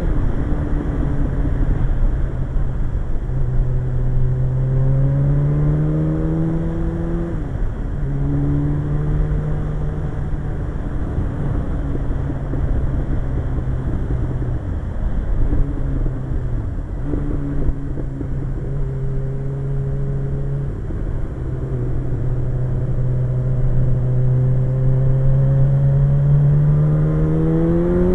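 Suzuki GSX-R 1100 inline-four motorcycle engine under way, its note climbing slowly with the throttle and dropping sharply three or four times as the rider shifts or eases off, then climbing again near the end. Heavy wind rush over the microphone underneath.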